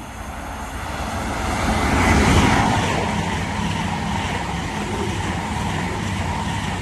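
Passenger train passing at speed on the main line: a rushing, rumbling running noise that builds to its loudest about two seconds in, then holds steady.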